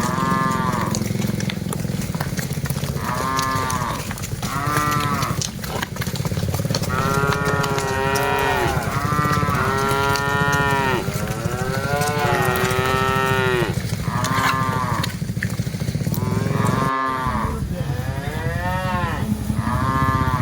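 Cattle mooing again and again, each moo rising then falling in pitch, the calls coming thickest and overlapping in the middle, over a steady low rumble.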